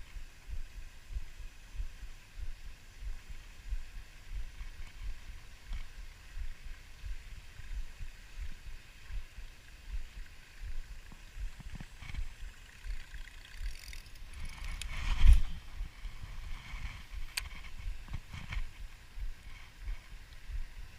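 Wind buffeting the microphone in uneven gusts, with a louder rush about fifteen seconds in and a few sharp clicks in the last third.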